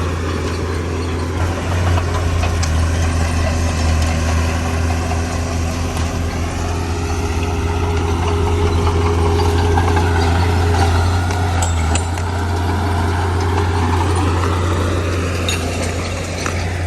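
Heavy diesel engine of construction machinery running steadily, with a deep low hum that swells slightly under load toward the middle and eases near the end.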